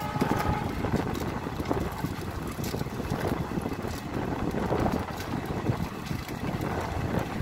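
Passenger train heard from the open door of a sleeper coach while moving, a steady rumble of wheels on rails with frequent irregular clicks, and wind buffeting the microphone.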